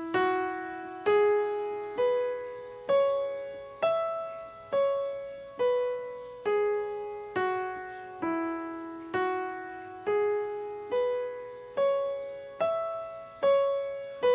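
Piano playing the E major pentatonic scale slowly, one note at a time about once a second, each note left to ring and fade. It climbs up the scale and back down, then climbs and descends again.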